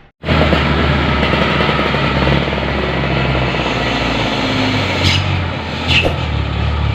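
Isuzu Giga dump truck's diesel engine running steadily and loudly, coming in suddenly just after the start. Two short sharp sounds stand out about five and six seconds in.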